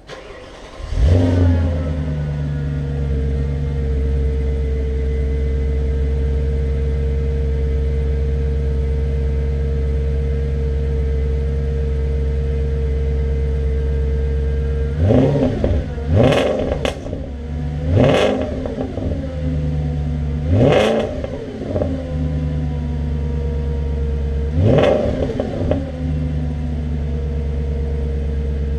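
Audi S4 B7's 4.2-litre V8 starting from cold: it catches about a second in with a brief flare, then settles into a steady fast cold idle. In the second half it is revved in several quick throttle blips before falling back to idle.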